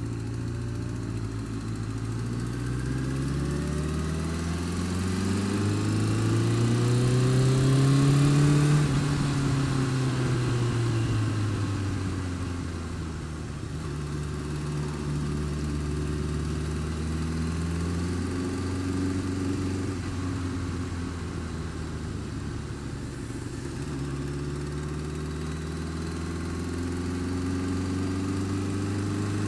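Honda Fireblade's inline-four engine being slowly revved up and let back down: the revs climb to a peak about eight seconds in, fall back, then rise gently twice more. The engine carries a weird noise that the owner cannot place, worse when cold and quieter but still there when warm.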